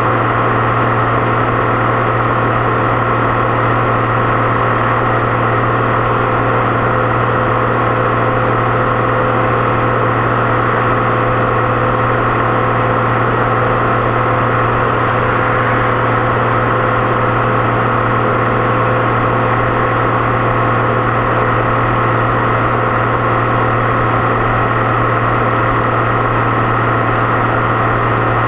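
Deutz-Fahr 6.61 tractor engine running steadily at constant speed on the road, with a steady hum and a steady high turbo whine above it.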